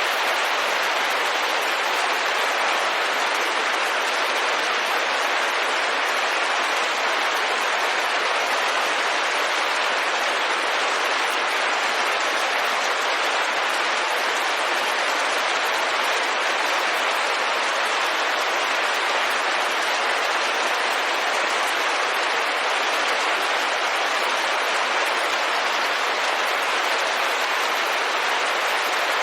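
Steady rain falling on a window: an even hiss that does not change in level.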